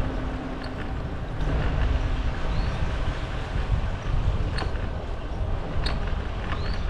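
Wind buffeting the microphone and rolling noise from a bicycle in motion, a steady rumble, with a few light clicks and two short high chirps.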